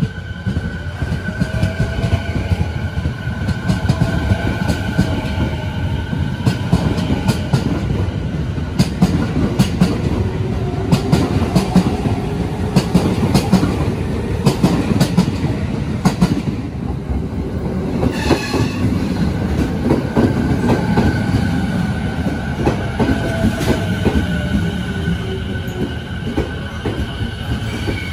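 209-series electric commuter train pulling out of the platform: its motors whine, rising in pitch as it speeds up, over the rumble and clatter of the wheels on the rails. After a brief lull a little past halfway, a second electric train runs along the platform, its motor whine falling as it brakes.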